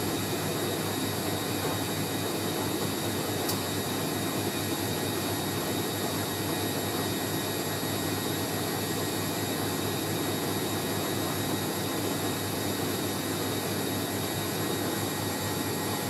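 Hoover A3060 Electronic 1100 washing machine in a high-speed spin with a balanced load, running smoothly at a steady pitch, with an even rush from the drum and a thin high whine over it.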